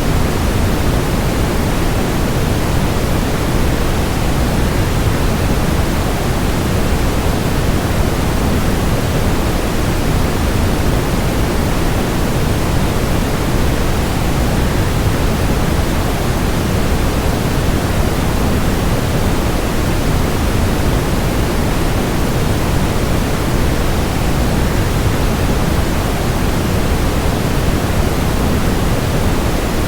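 Waterfall, a steady unbroken rush of falling water that is heavier in the low end and does not change.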